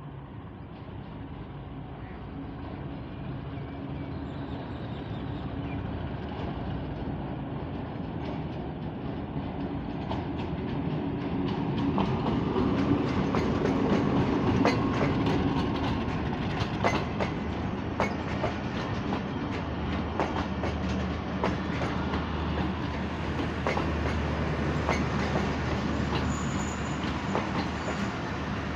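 Diesel locomotive approaching and passing close by, its engine growing steadily louder, followed by passenger coaches rolling past with clickety-clack from the wheels over the rail joints.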